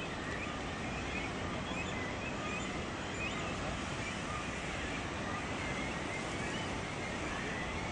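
Steady outdoor background noise with many faint, short, high bird chirps scattered through it.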